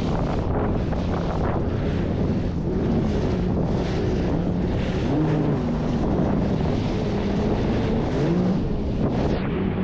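Yamaha JetBlaster Pro jet ski engine running under way, its pitch rising and falling as the throttle changes, with wind buffeting the microphone and water rushing past. The high hiss drops away suddenly near the end.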